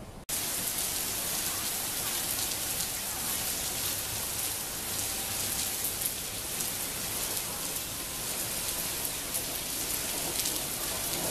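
Heavy rain pouring down steadily: a dense hiss with the sharp ticks of nearby drops, starting abruptly just after the start.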